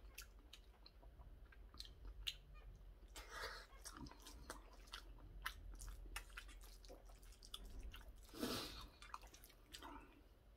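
Faint chewing and mouth sounds of a person eating curry rice, with many small clicks as a metal spoon works in a stainless steel bowl. Two short, louder noises come about three and a half and eight and a half seconds in.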